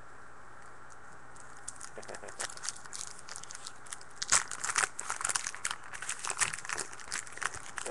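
Foil trading-card pack wrapper being torn open and crinkled by hand, an irregular run of crackles and small snaps that starts about two seconds in and grows busier about halfway through.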